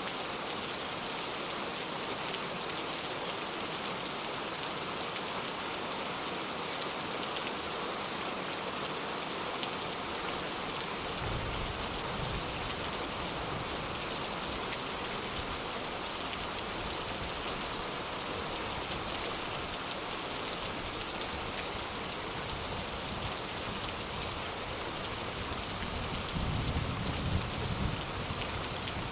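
Steady rain falling, with a low rumble of thunder coming in about a third of the way through and swelling louder near the end.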